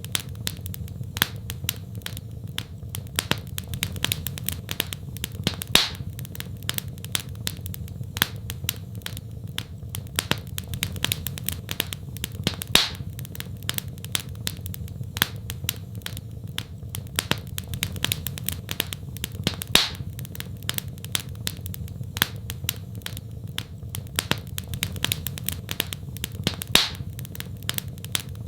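Wood fire crackling, with many small sharp pops and snaps over a steady low rumble of the flames. A louder pop stands out about every seven seconds.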